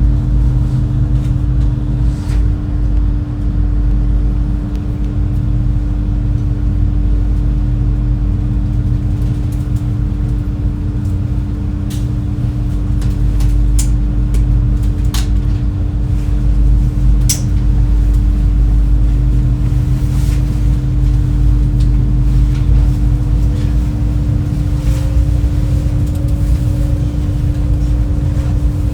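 Steady low drone of a high-speed passenger boat's engines, heard from inside the cabin, with a constant hum running through it. A few sharp clicks sound around the middle.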